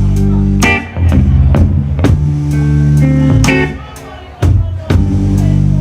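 A blues-rock band playing live without vocals: electric guitar, bass guitar and drum kit over a steady beat of about two drum hits a second. The band briefly drops back a little past the middle.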